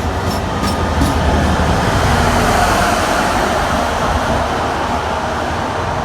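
NJ Transit commuter train running through the station: a loud, steady noise of wheels on rails, loudest about one to three seconds in.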